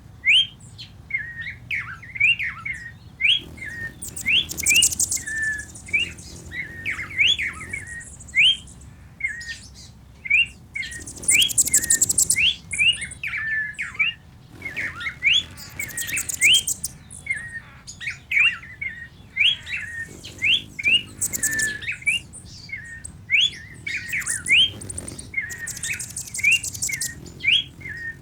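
Birds chirping: a steady stream of short, quick rising chirps, with a high, rapid trill breaking in every few seconds.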